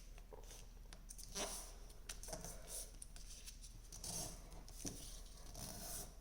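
Faint rustling and scraping of a square sheet of paper being folded and creased by hand, in several short swishes with light taps.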